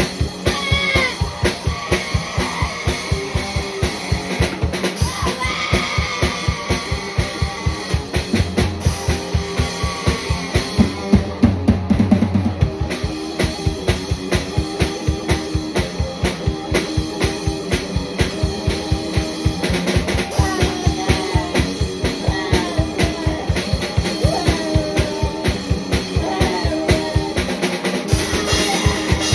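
A guitar and drum kit playing a rock song hard, the drums keeping a fast steady beat of about four hits a second under the guitar.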